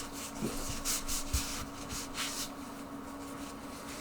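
Soft rubbing and scraping from small hand work at a bench, with a few brief scrapes and light knocks, over a steady low hum.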